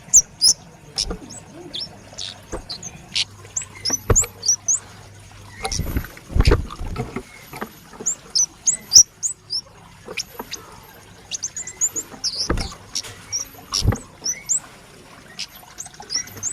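Young male flowerpecker (kemade) calling constantly with quick, sharp high chirps, interrupted by clicks and knocks, with a louder patch of knocking about six seconds in.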